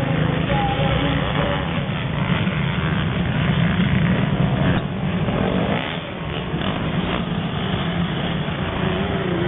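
Motocross bike engines running continuously on the track, their pitch wavering as riders work the throttle.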